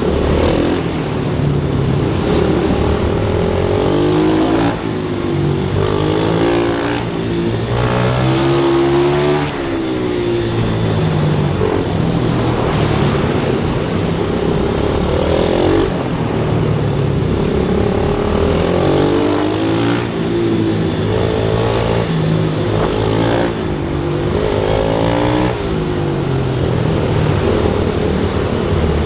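Small motorcycle engines on a kart-style track, revving up and down repeatedly, the pitch climbing and dropping every few seconds as the bikes accelerate out of corners and shift gears.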